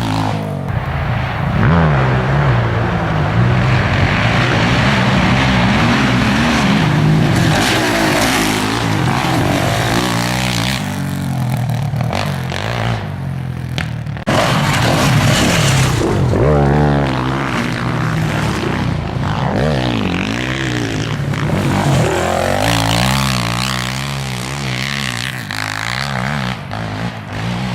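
Suzuki LTZ400-based Z440 race quad's single-cylinder four-stroke engine revving up and down over and over as it is ridden hard around a motocross track. The pitch climbs and drops with each burst of throttle, and the sound changes abruptly about halfway through.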